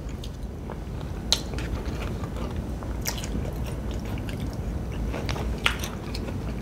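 Close-miked eating: chewing a spoonful of a soft side dish, with a few sharp clicks and mouth smacks.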